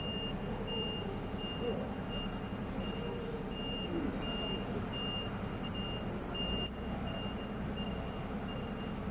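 Truck reversing alarm beeping steadily, about two beeps a second, over the running engine; the beeping stops just before the end. A single sharp click comes about two-thirds of the way through.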